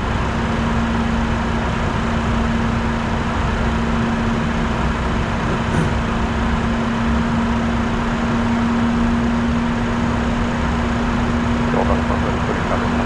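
Flight-deck noise of a Bombardier Challenger 604 business jet in flight: a steady rush of airflow and engine noise with a constant low hum running through it.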